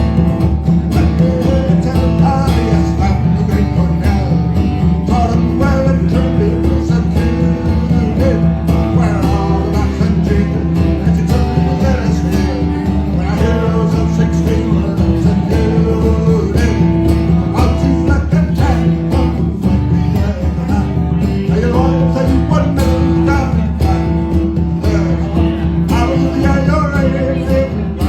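A band playing music live, a plucked guitar to the fore over steady held bass notes.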